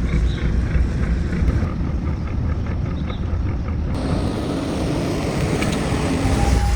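Steady road rumble of a car heard from inside the cabin, driving over a rough stretch of road under repair. The tone of the rumble changes abruptly about four seconds in.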